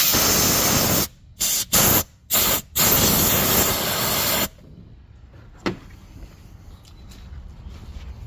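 Compressed air blown in blasts through a fuel tank vent hose: one long hiss, three short bursts, then another long hiss that stops about four and a half seconds in. The air passing through and out the bottom shows the line is clear of blockage.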